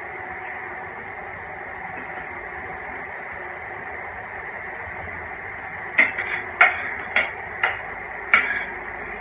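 Steady background hiss, then a run of about six sharp clicks and knocks over the last three seconds.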